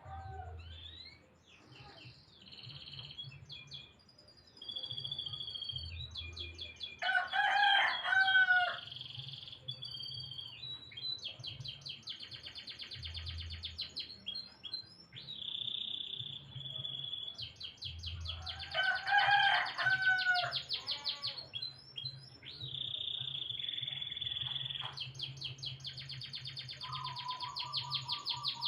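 Domestic canary singing long phrases of fast trills and rolls, almost without a pause. A rooster crows twice in the background, about seven and eighteen seconds in; these two crows are the loudest sounds.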